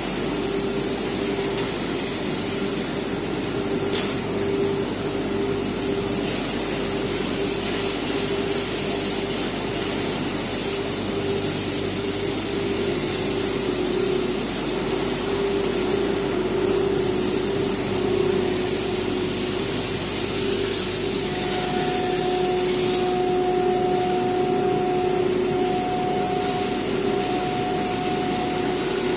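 CNC router running, its air-cooled spindle giving a steady whine over even machine noise. About two thirds of the way through, a higher tone joins it, coming and going.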